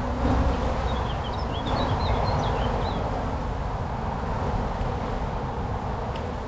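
Honey bees buzzing in a steady drone around an opened hive. A small bird twitters for about two seconds, starting about a second in.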